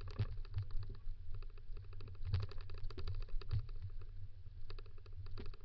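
Dog-drawn kick scooter rolling fast over a dirt and gravel trail, with a dense, irregular rattle and crackle of wheels and frame over a steady low rumble.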